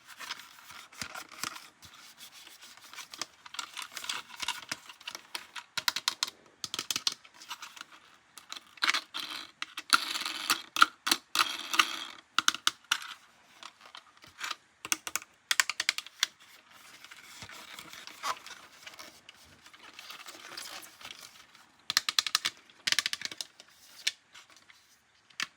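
Hands unboxing and handling plastic toys and their packaging: rapid small clicks, taps and rustling in uneven runs, busiest about ten seconds in and again near the end.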